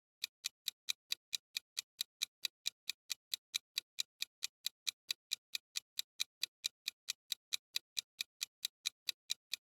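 Ticking clock sound effect of a quiz countdown timer: short, even ticks at about four to five a second.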